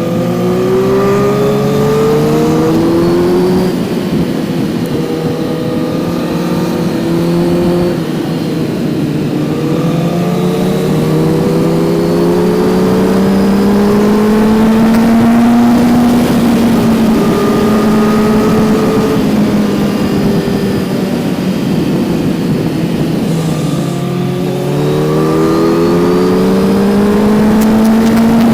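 Kawasaki Z900's 948 cc inline-four engine pulling under way, its pitch climbing steadily and dropping sharply three times as the rider changes gear or eases the throttle, then climbing again.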